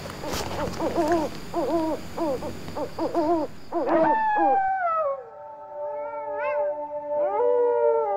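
Eerie animal-cry sound effects: a quick run of short arched calls, about two a second, then from about four seconds in, long wavering howl-like cries that slide down and up over a steady held drone.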